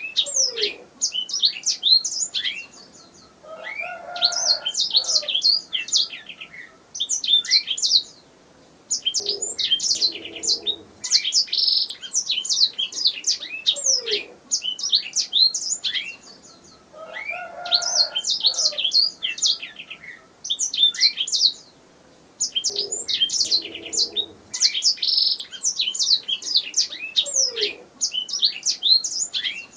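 Domestic canary singing: long runs of fast, high chirps and trills in phrases of a few seconds, broken by short pauses, with a fainter, lower call in some of the gaps.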